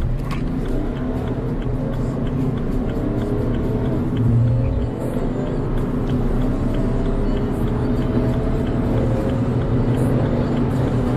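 Car engine under hard acceleration, its pitch climbing slowly, with a brief dip about halfway through.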